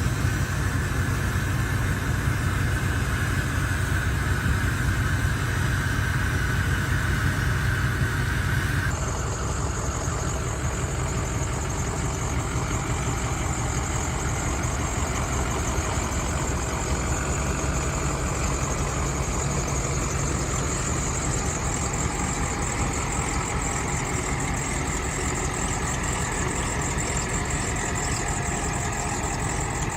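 Ford V8 diesel truck engine idling steadily after a cold start. The sound changes abruptly about nine seconds in.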